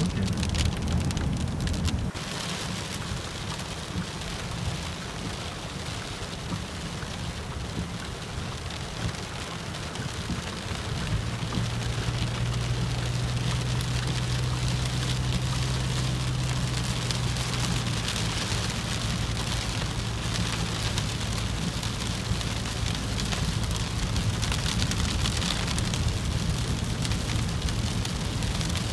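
Rain pattering steadily on a moving car, heard from inside, with a low engine and road hum beneath that grows stronger about eleven seconds in.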